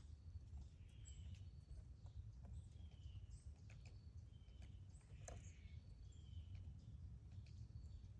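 Faint outdoor ambience: small birds giving short, falling chirps about once a second, with a few higher calls and scattered faint clicks over a low steady rumble.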